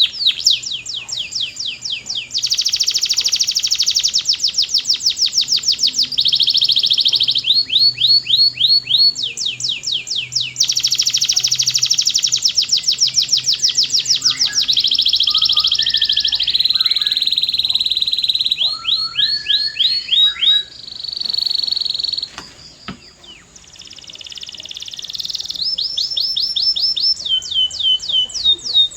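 Domestic canary singing: long runs of fast, high repeated notes, each run a trill of one syllable before switching to the next. The song drops to a quieter, softer passage about three quarters of the way through, then the loud trills return.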